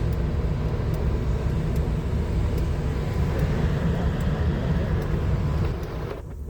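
Engine and road noise of a moving van, heard from inside the cab: a steady low rumble that dips briefly near the end.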